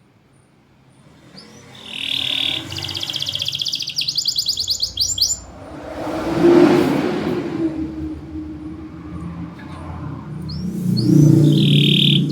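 Domestic canary singing: two phrases of fast, high, repeated trills, one starting about two seconds in and another near the end. Between them, around the middle, a broad rushing noise swells and fades.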